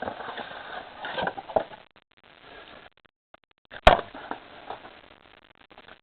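Rustling and crinkling of trading-card pack wrappers and cards being handled during a pack opening, irregular and stop-start, with one sharp snap about two-thirds of the way through.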